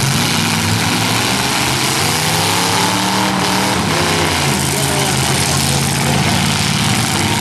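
V8 demolition derby car engines running and revving together, their pitch rising and falling through the middle.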